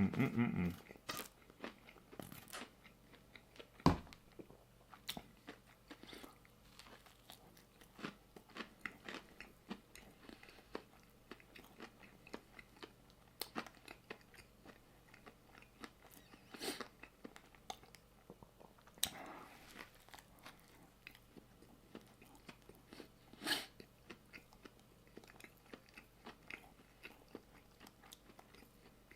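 Close-miked chewing and biting of a crunchy chicken sandwich: irregular crunches and mouth clicks. A sharp knock comes about four seconds in.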